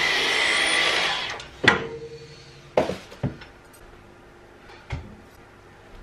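Cordless stick vacuum cleaner running with a steady whine, then switched off about a second and a half in. A few knocks follow, the first loud with a short ring.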